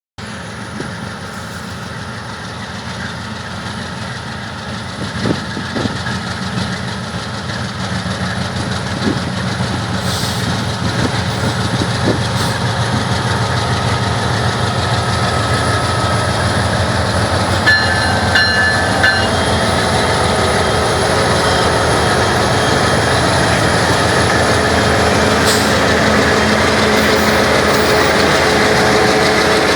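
Freight train running, its rumble growing steadily louder as it approaches, with a few sharp clacks. A brief high-pitched tone sounds a little past halfway.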